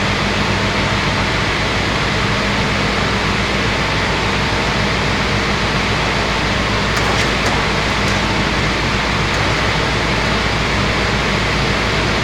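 Multi-blade circular saw machine running steadily: a constant, even machine noise over a low hum, with a few faint clicks about seven seconds in.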